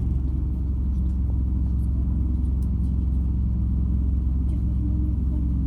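Steady low rumble of a MAZ-206 city bus in motion, heard from inside the passenger cabin: engine and running gear, with a few faint clicks and rattles.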